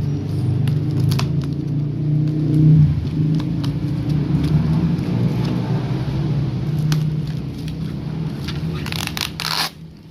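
An engine runs steadily as a low hum, with scattered clicks and crackling, scraping handling noises. The hum cuts off suddenly near the end, right after a short burst of crackling.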